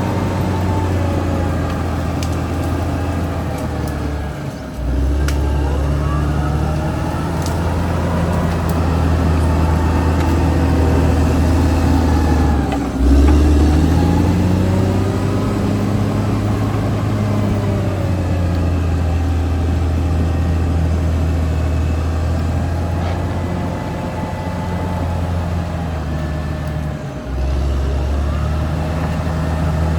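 Caterpillar D6R XL bulldozer's diesel engine running under working load, its pitch rising and falling as the dozer pushes. The engine note briefly sags and recovers three times, about four, thirteen and twenty-seven seconds in.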